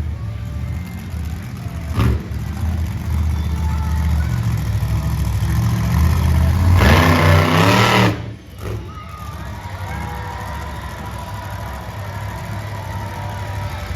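Monster truck engine running hard and revving, with a sharp bang about two seconds in; the revving peaks loudest near the middle, then drops off suddenly to a lower, steadier running.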